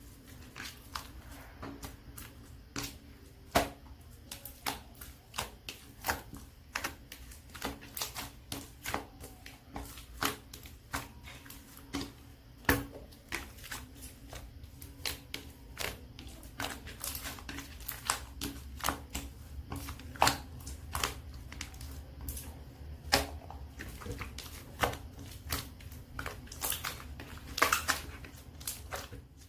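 Clear glitter slime being squished and stretched, giving irregular sharp clicks and pops a few times a second.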